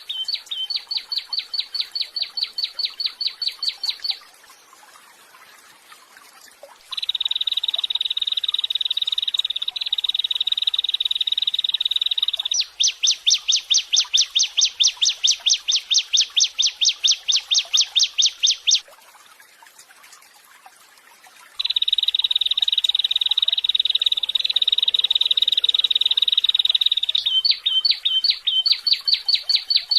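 Songbird song used as a masteran (training recording for contest birds). Bouts of rapid high chips, about eight a second, alternate with long, steady buzzy trills, broken by two short pauses.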